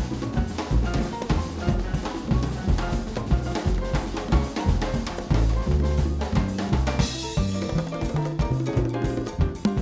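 Live Latin jazz band playing with the drum kit to the fore: rapid snare, tom and bass drum strokes over low pitched notes, with a cymbal wash about seven seconds in.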